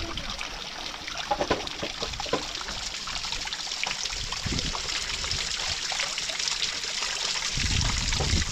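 Water trickling, with a few soft knocks.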